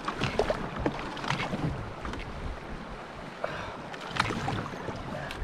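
Water splashing and sloshing in and around a canoe, in irregular small splashes, with wind rumbling on the microphone.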